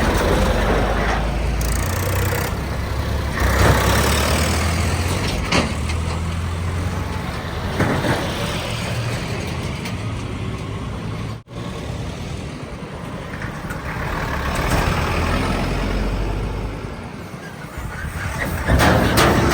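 Heavy diesel vehicle engines running steadily, with a few sharp knocks and hisses; the sound cuts out for an instant about halfway through.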